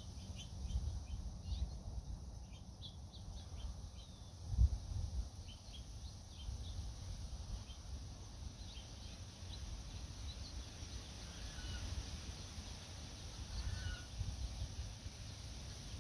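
Small birds chirping in short, high calls, many in quick succession in the first half and a few scattered later, over wind buffeting the microphone as a steady low rumble with one strong gust about four and a half seconds in.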